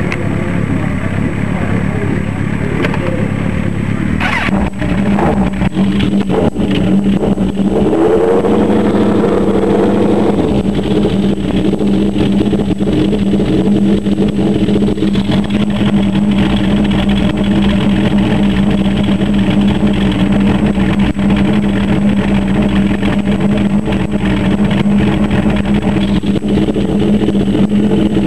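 Suzuki GSX-R 1100 inline-four motorcycle engine running, recorded onboard. Its pitch rises about eight seconds in, then holds steady at high revs.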